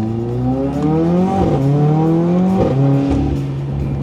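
Mercedes-AMG A45's turbocharged four-cylinder engine with a Milltek exhaust accelerating. Its pitch climbs and drops sharply at two quick dual-clutch upshifts, about a second and a half and two and a half seconds in, then runs steady.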